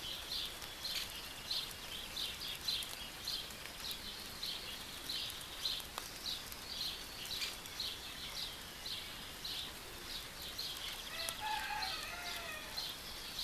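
Garden birds chirping over and over, a few short high chirps a second, with a lower, longer call rising and falling near the end.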